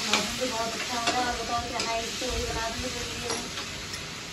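Chopped tomato and onion masala sizzling in a kadhai over a gas flame as a metal spatula stirs it, with steady frying hiss and scattered light scrapes and clicks of the spatula against the pan.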